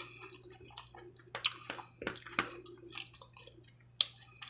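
Close-miked eating sounds of saucy oxtail: wet chewing, lip smacks and sucking, with scattered sharp clicks, the loudest about four seconds in.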